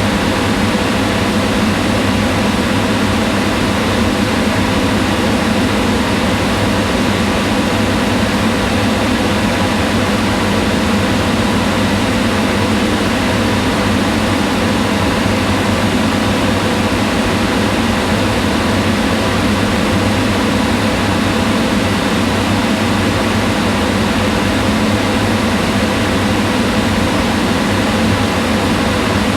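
Kitchen range hood exhaust fan running steadily: a constant rush of air with a low hum under it, unchanging throughout.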